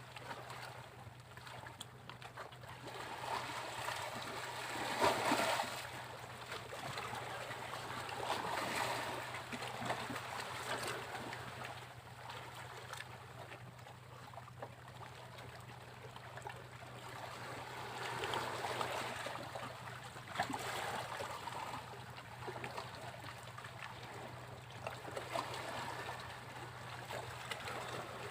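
Sea waves breaking and washing up a beach, the surf rising and falling every few seconds over a steady low hum.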